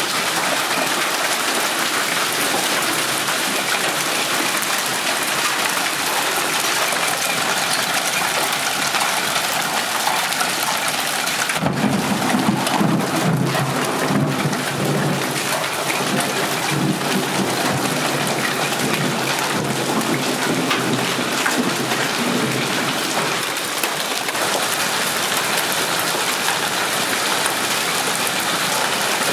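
Hailstorm with hail and heavy rain pelting down steadily. About twelve seconds in, a long rumble of thunder starts suddenly, rolls on for around ten seconds and dies away.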